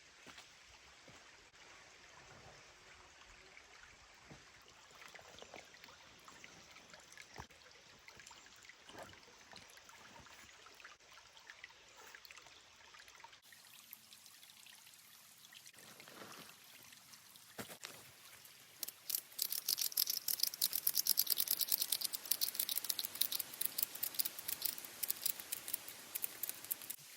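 Rain dripping and pattering with a trickle of water, faint and scattered at first, then a dense, louder patter of drops from about two-thirds of the way in.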